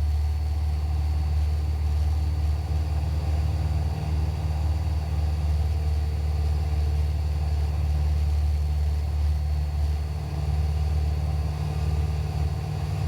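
Cessna 172's piston engine and propeller droning steadily at constant power in flight.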